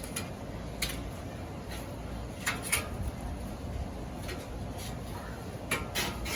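Metal cooking utensils clinking and scraping a few times, in short separate strokes, over a steady low background rumble.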